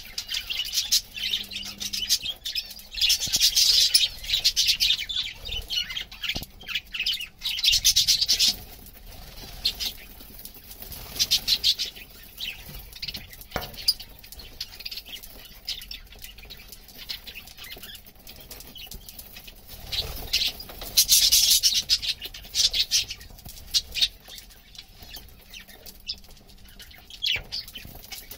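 Lovebirds giving repeated bursts of rapid, high-pitched chattering, with quieter stretches between the bursts.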